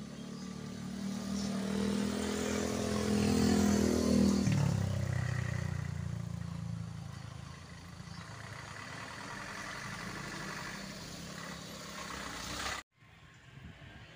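A truck's engine running as it approaches and drives past, loudest about four seconds in, its pitch dropping as it goes by, then fading away. The sound cuts off abruptly near the end.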